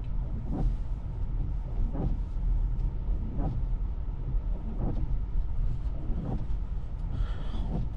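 Steady low road and tyre rumble inside a Tesla's cabin driving on snowy streets, with a faint sound repeating about every second and a half.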